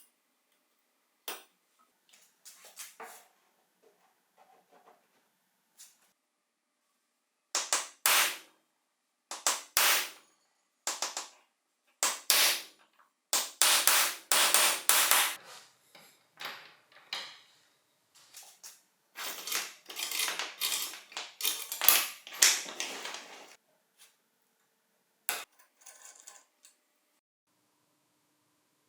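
Bicycle drive chain and small steel drivetrain parts being handled during disassembly: intermittent metallic clicks and clattering, in several dense bursts with short gaps between them.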